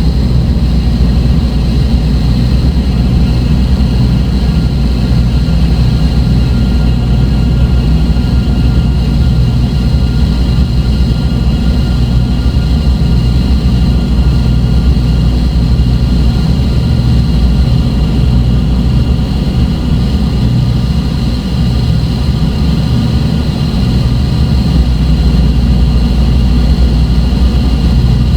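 Dark ambient electronic drone: a loud, unchanging low rumble with thin high tones held steadily above it.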